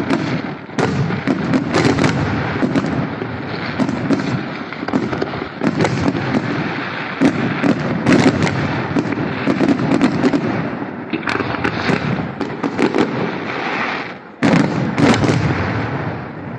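Fireworks display: aerial shells bursting one after another in a dense barrage of bangs. There is a brief lull about fourteen seconds in, then another volley, and the bangs die away near the end.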